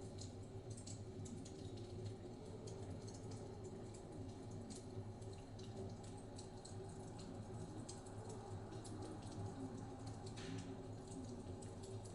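Wood fire crackling, with frequent small irregular pops and clicks over a steady low rumble.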